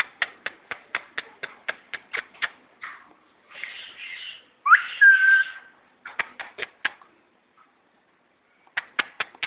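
Quick kiss-like clicks in runs of about four a second, the kind made to coax a pet parrot, with a short whistle in the middle that rises and then holds one steady note.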